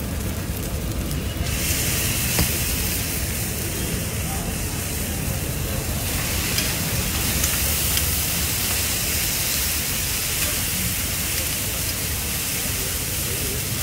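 Shredded paratha and egg sizzling on a hot flat iron griddle as curry gravy is poured on and worked through with a spatula. The sizzle grows louder about a second and a half in, with a few light clicks of the spatula on the metal.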